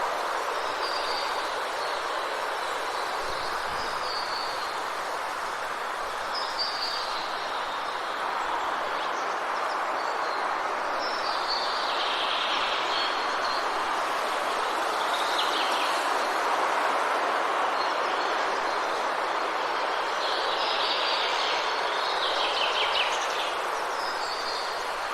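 Forest ambience: a steady rushing noise runs throughout, with birds chirping and calling again and again over it, in busier clusters about halfway through and near the end.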